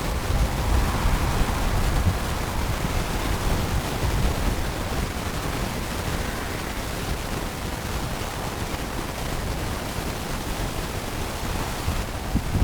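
Steady rushing noise of wind on the microphone, heaviest at the low end, with no distinct engine note.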